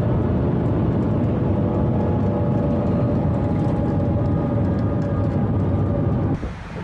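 High-speed train running at speed: a loud, steady rumble with a faint whine, cut off abruptly a little before the end.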